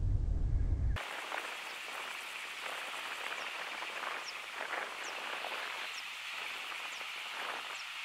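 Wind rumbling on the microphone for the first second, then a steady outdoor hiss with a small bird's short, high, falling call repeated about once a second.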